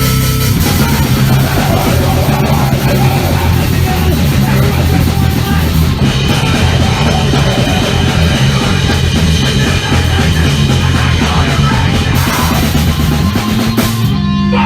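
A powerviolence band's recorded song: loud, dense, fast drums and distorted guitar with no break.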